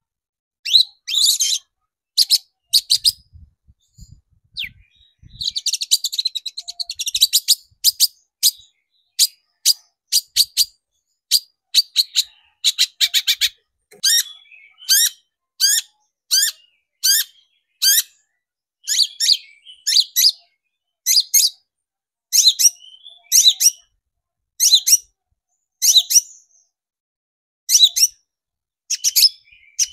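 Long-tailed shrike (cendet) singing: loud, sharp, high chirping notes, a fast chattering run about six seconds in, then a steady string of separate notes one or two a second.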